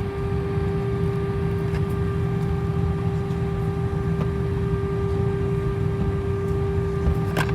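Airbus A319 cabin noise with the engines running on the ground: a steady low rumble under a constant whine. There is a brief rattle near the end.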